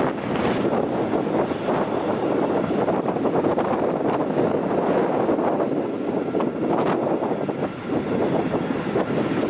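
Ride noise aboard a moving freight train: wind rushing over the microphone mixed with the steady rumble of the wagons running on the rails, with a brief dip near the end.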